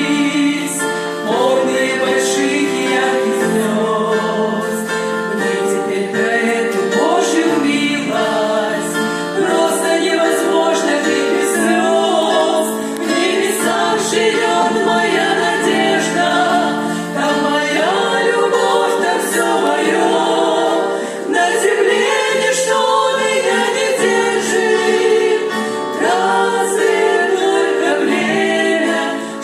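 A church worship group singing a Russian Christian song in several voices as a choir, with music throughout.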